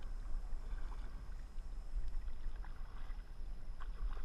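Kayak on the water: a few small splashes and drips from the paddle over a steady low rumble.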